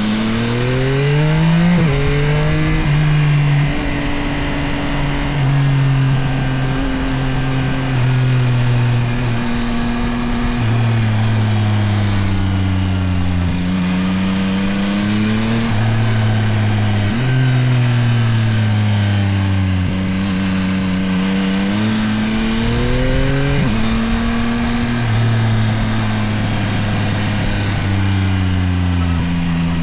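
Yamaha Tracer 9 GT+ motorcycle's CP3 890 cc inline-three engine under way. Its revs climb and fall several times, with quick drops in pitch as it shifts gear, over a steady rush of wind and road noise.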